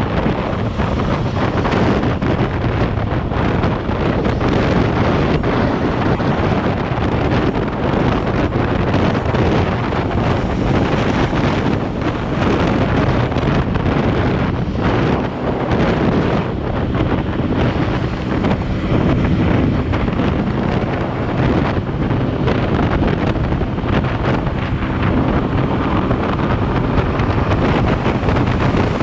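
Steady, heavy wind rushing over the microphone of a moving motorcycle, with the engine's steady hum faintly underneath.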